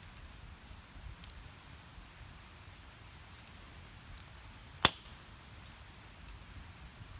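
Wood fire burning in a Snow Peak Takibi-dai S fire pit: scattered faint crackles, with one loud sharp pop about five seconds in.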